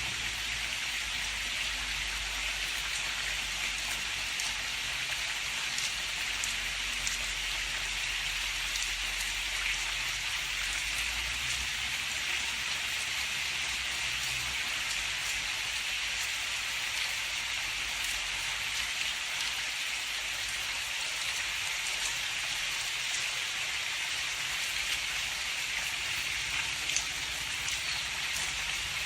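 Steady rain falling, with the patter of single drops striking a surface. A low rumble of distant thunder underneath fades away about twelve seconds in.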